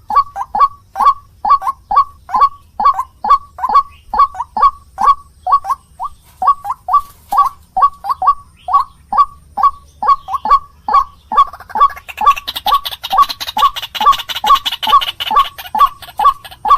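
White-breasted waterhen (ruak-ruak) calling in a fast, even series of short, harsh notes, about two to three a second. This is the bird's territorial calling, used as a lure call. About three-quarters of the way in, a denser, higher rasping chatter joins the calls.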